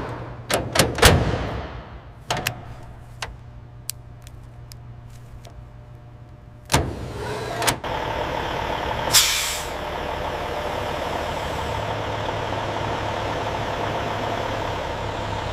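A few sharp knocks and a heavy clank, then about eight seconds in a truck engine starts and settles into a steady idle, with a brief air-brake hiss a second or so later.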